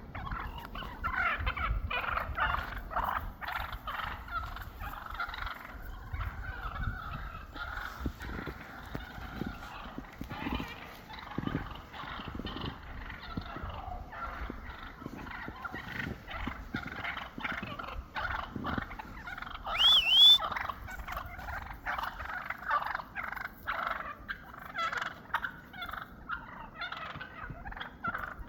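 A flock of wild turkeys gobbling and calling over one another without a break, as they flock up and establish their pecking order. About two-thirds of the way through, one louder, sharp high call rises and falls above the rest.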